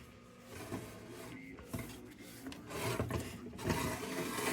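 Irregular rubbing and scraping from the lantern's glass globe being handled, getting louder in the second half.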